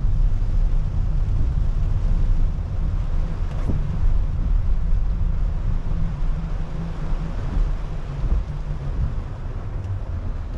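Car driving on a wet road in rain: a steady low rumble of road and tyre noise under an even hiss of rain and tyre spray.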